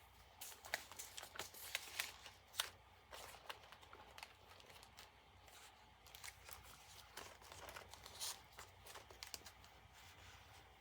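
Faint paper handling: paper pages, tags and packets of a handmade journal rustling and sliding, with scattered light crinkles and taps.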